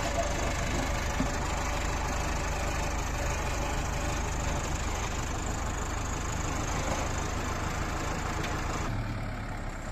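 JCB 3DX backhoe loader's diesel engine running steadily; its note changes about nine seconds in.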